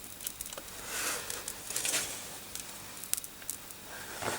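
Flux hissing and sizzling on molten solder in a solder pot as a connector is dipped in to desolder it, swelling twice, about one and two seconds in. A few sharp clicks follow near the end.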